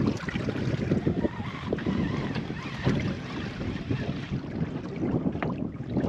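Gusty wind buffeting the microphone on a small boat at sea, with water lapping against the hull and occasional small knocks.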